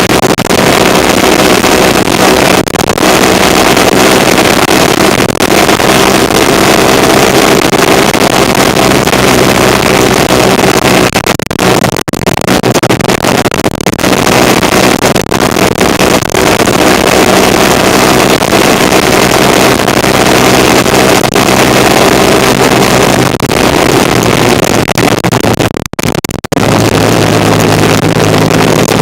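Kawasaki KZ400 parallel-twin motorcycle engine running under way, with heavy wind noise on the microphone. Near the end the engine sound cuts out briefly and comes back at a lower pitch, as on a gear change or slowing down.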